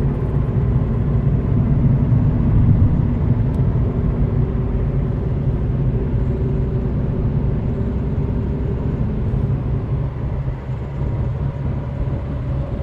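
Citroën C3 Picasso diesel engine running steadily, swelling slightly a couple of seconds in and easing off near the end.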